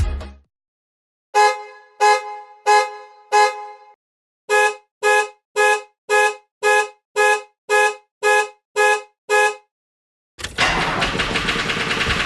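Two-tone car horn honking: four separate short honks, then nine quicker honks in a steady rhythm of about two a second. Near the end comes about two seconds of a loud, noisy, steady sound.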